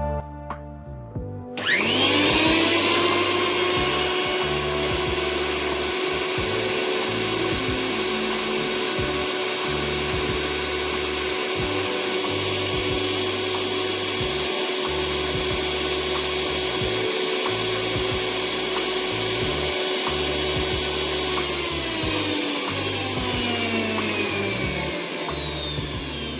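Sujata mixer grinder's motor, newly fitted with a double-ball-bearing armature, switched on about a second and a half in: it spins up quickly to a steady high whine, runs for about twenty seconds, then is switched off and winds down in falling pitch. Background music with a steady beat plays underneath.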